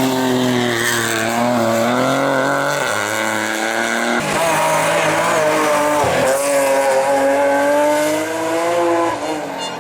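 Race car engine running hard at full throttle on a hillclimb, its pitch breaking at gear changes about four seconds in and again about six seconds in.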